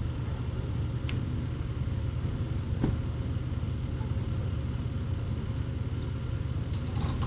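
Vehicle engine idling with a steady low rumble, and a sharp click about three seconds in.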